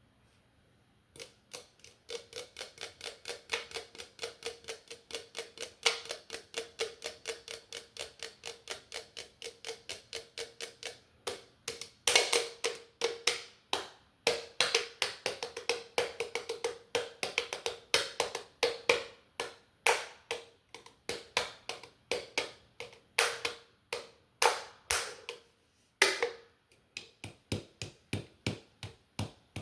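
Close-miked chewing: a steady run of wet mouth clicks, about three a second, starting about a second in and getting louder in the middle.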